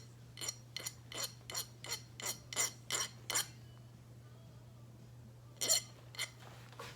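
Small hand file worked in quick short strokes on a metal part, about three strokes a second for a dozen strokes, then a pause and two more strokes near the end.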